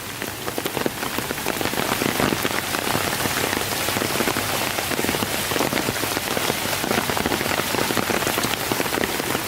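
Steady rain from the remnants of Hurricane Florence, a dense, even patter of drops hitting the ground and surfaces.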